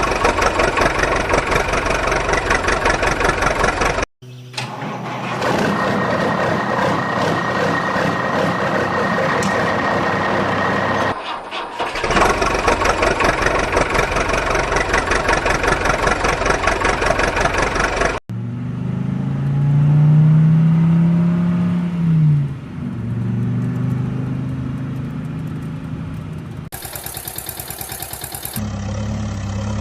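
Vehicle engines running in a string of short, abruptly cut clips, one engine revving up and back down about two thirds of the way through.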